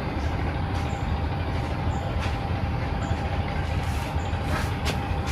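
Steady mechanical running noise with a deep rumble and a constant hum, with faint high ticks about once a second.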